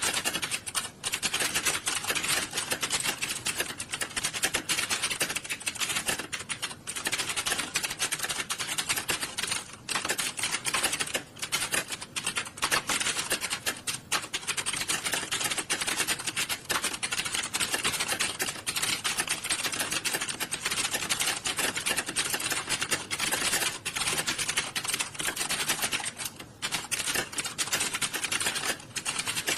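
Many computer keyboards being typed on at once in an exam hall, a continuous overlapping clatter of key clicks with a few brief lulls.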